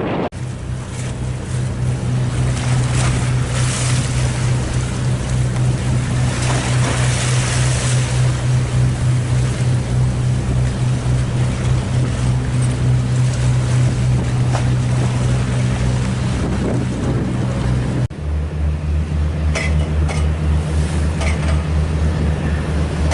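Harbour ferry's diesel engine throbbing steadily with a low, pulsing drone, with wind buffeting the microphone and water rushing. Near the end the throb drops to a lower, deeper pitch.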